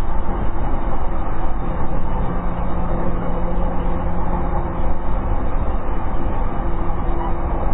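E233 series electric train running, heard from inside the passenger car: a steady rumble of wheels on rail with faint steady tones from the traction equipment.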